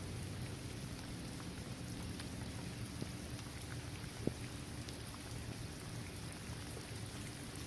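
Steady rain falling on a hard court surface, trees and grass: an even hiss with scattered distinct drop ticks, and one louder drip about four seconds in.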